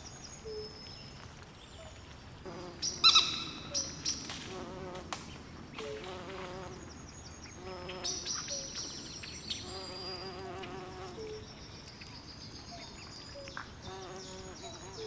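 Swamp night ambience: frogs and insects calling over one another, with short repeated low notes, trilled pulsing calls and high chirps. A louder call stands out about three seconds in.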